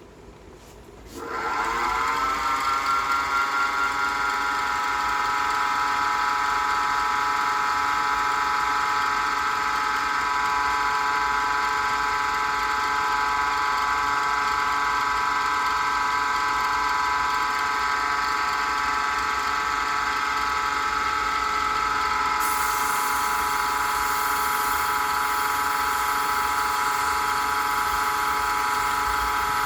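A small electric wood lathe motor starts up about a second in, its whine rising quickly in pitch before settling into a steady run. A faint high hiss joins about two-thirds of the way through.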